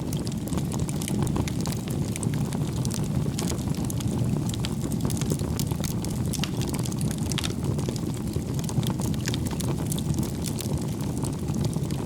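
Wood fire burning: a steady low rumble of flames with frequent sharp crackles and pops from the burning logs.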